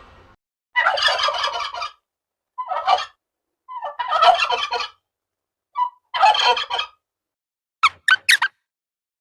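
Domestic turkey gobbling: four rattling gobbles in a row. Near the end come four short, sharp, high calls in quick succession.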